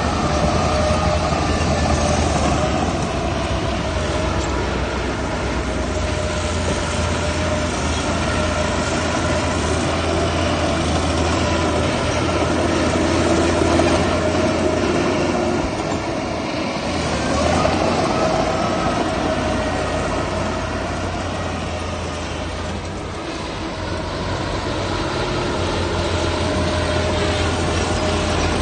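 Heavy diesel earth-moving machinery running at work, a steady loud engine drone with a low hum and a wavering whine that eases off and swells again about two-thirds of the way through.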